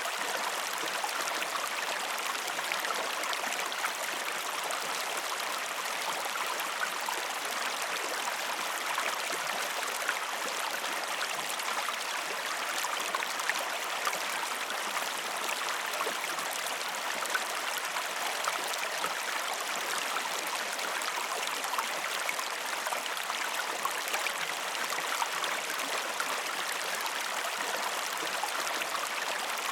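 Waterfall: a steady rush of falling water with constant small splashes.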